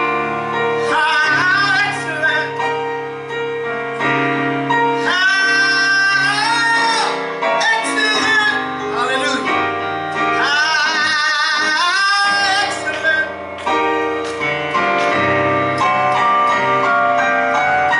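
Gospel singing: a singer holding long notes with heavy vibrato over sustained keyboard chords.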